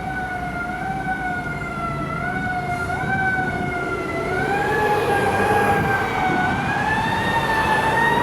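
A 1995 KME fire engine's siren sounding on an emergency response, its pitch climbing slowly and unevenly, over the low rumble of the truck. It grows louder about halfway through.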